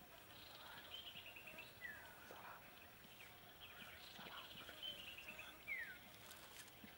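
Faint bird calls, twice: a quick run of descending notes, then a single downward-slurred whistle. A steady, high insect drone runs underneath.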